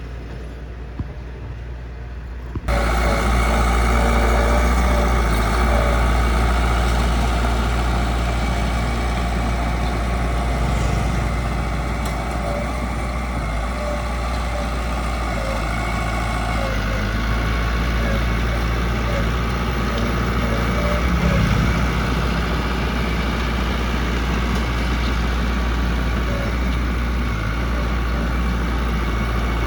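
Heavy diesel construction machine engine running steadily, with a low hum. The sound steps up suddenly about two and a half seconds in and stays louder after that.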